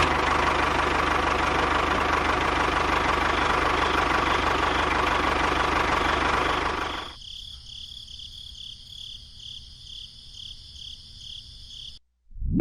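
A small motor or engine running steadily with a fast fine rattle, cutting off about seven seconds in and leaving a faint high tone that pulses a few times a second.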